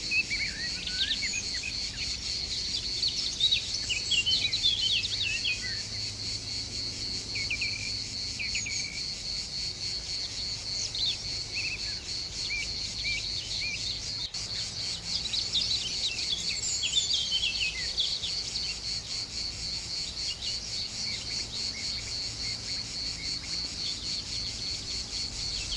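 A steady, finely pulsing insect chorus, with small birds chirping and trilling on and off over it.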